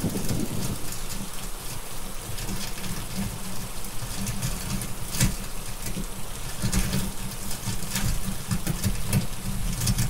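Steady rain with a low rumble of thunder underneath, and scattered sharp crackles and pops from a wood fire.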